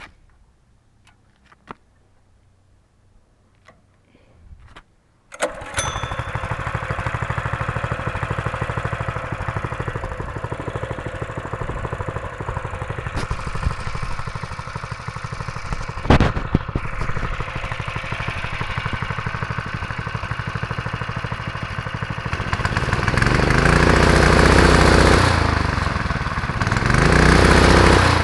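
Honda GX200 single-cylinder four-stroke engine on a go-kart starting about five seconds in, after a few faint clicks, then running at a steady idle. Near the end it runs louder, with the pitch rising and falling as it is revved.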